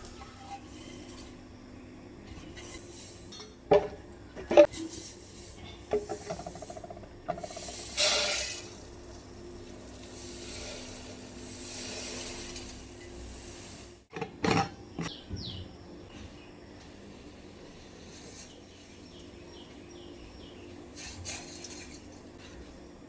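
Kitchen handling sounds: scattered knocks, clinks and scraping of dishes and utensils over a faint steady hum.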